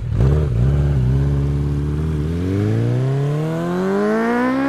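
Motorcycle engine running at a steady pitch, then accelerating with a smooth, steadily rising pitch for about two seconds before easing off near the end.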